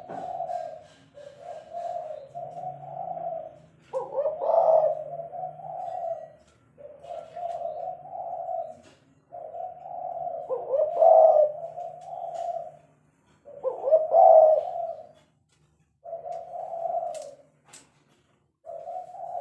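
Spotted dove (tekukur) cooing: a run of repeated coo phrases of a couple of seconds each with short pauses between, a few of them louder, about four, eleven and fourteen seconds in.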